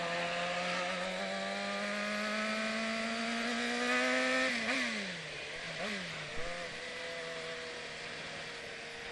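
Suzuki GSX-R 750 SRAD's inline-four engine accelerating hard, its note climbing steadily for about four and a half seconds. The note then falls away, wavers briefly and settles to a steady, lower cruise.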